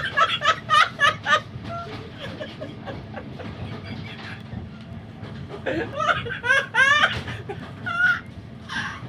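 Laughter in short bursts during the first second or so and again about six seconds in, over the steady low rumble of a moving train carriage.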